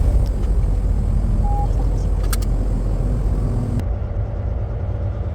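Semi truck driving: a steady low engine and road rumble.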